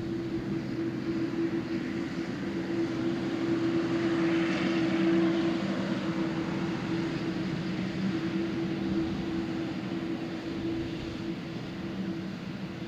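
Jet airliner's engines on takeoff: the noise swells to a peak about five seconds in and then fades slowly, over a steady low hum.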